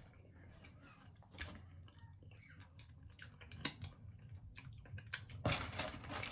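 Chewing and mouth sounds of someone eating, with short wet clicks throughout. A denser, louder stretch comes near the end.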